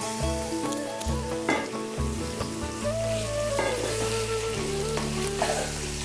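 Food sizzling as it fries in hot oil in a pan, with a few short knocks, under background music that has a bass line and a melody.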